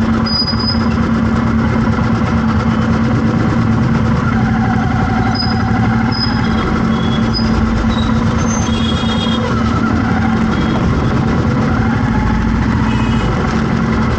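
Road traffic: vehicle engines running with a continuous rumble and a steady hum, and a few brief high-pitched tones now and then.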